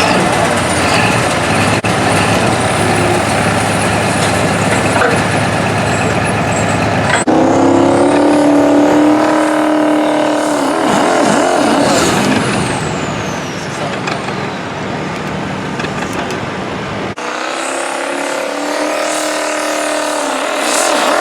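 Diesel 4WD pulling truck's engine running hard, then revving up in pitch under load. It breaks off abruptly twice into fresh rising runs, with a high whistle falling in pitch midway.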